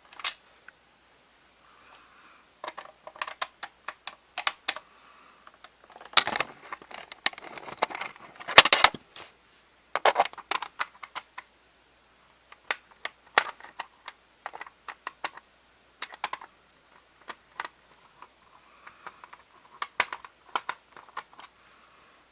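Irregular light clicks and small rattles of a VHS cassette and tape being handled during a repair, with a denser patch of handling noise midway through.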